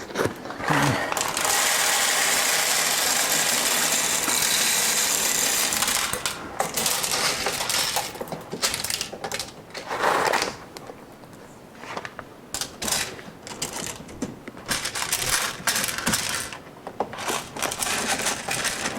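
Coffee beans poured into the bean hopper of a coffee machine: a dense, steady rattle for about five seconds, then scattered clicks and short rattles as the beans are spread around.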